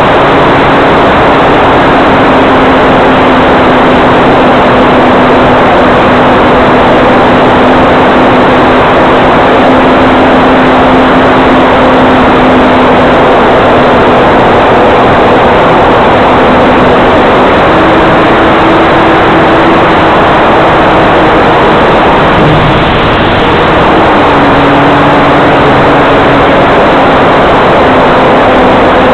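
Electric motor and propeller of a Hyperion O-1 Bird Dog RC model plane, heard as a steady drone under a loud, steady rush of noise. Its pitch steps up about two-thirds of the way through, dips briefly, then settles slightly lower.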